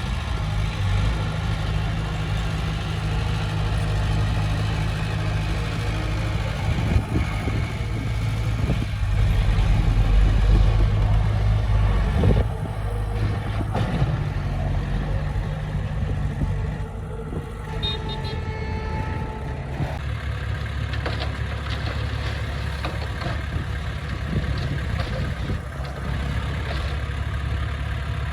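Diesel engine of heavy earthmoving equipment running steadily with a low hum, getting louder about ten seconds in, then easing back and settling to a steady, lower run for the second half.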